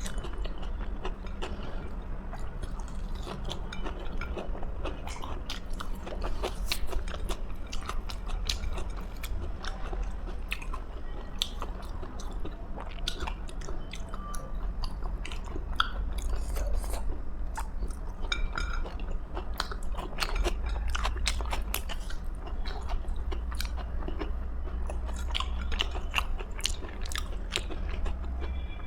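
Close-miked chewing and eating of a home-cooked Indian meal: wet mouth sounds with many quick, irregular crisp clicks and crunches, over a steady low hum.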